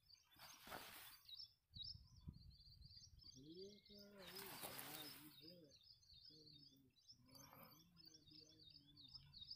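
Faint birds chirping over and over in quick, high little calls, with two short rushes of noise: one about half a second in and a longer one around four seconds in.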